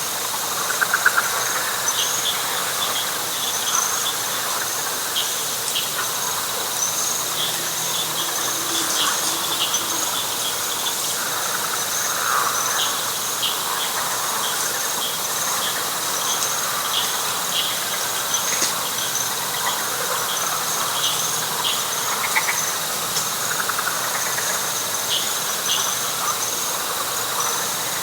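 Night chorus of frogs and insects in wet pine flatwoods: a steady high-pitched insect trill, short repeated chirps throughout, and a layer of frog calls beneath, with one louder pulsed call about a second in.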